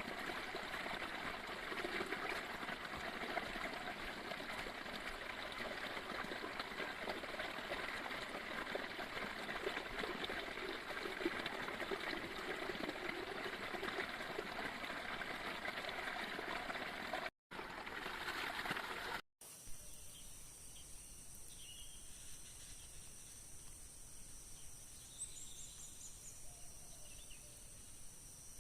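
Steady rain, an even hiss of falling water, that cuts off abruptly about 17 seconds in. It gives way to a quieter forest ambience of insects at a steady high pitch, with a few short chirps.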